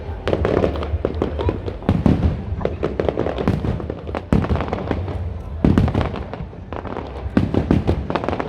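Aerial fireworks bursting in dense volleys: many sharp bangs and crackles in quick succession, with the heaviest clusters about two seconds in and again around six seconds.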